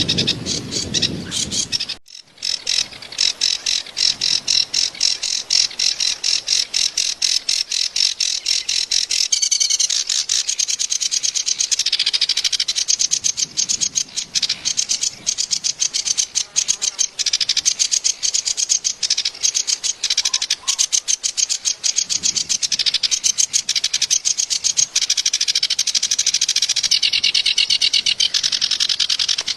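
A kerak basi (reed warbler) singing its harsh, chattering song: a long, fast run of scratchy high notes with only a brief pause about two seconds in.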